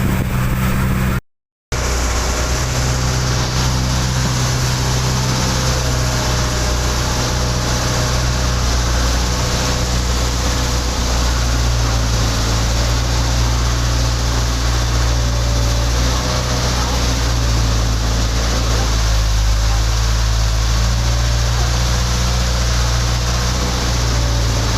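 A motorboat's engine runs steadily under way, a low hum beneath a loud rush of wind and water. The sound cuts out completely for a moment about a second in.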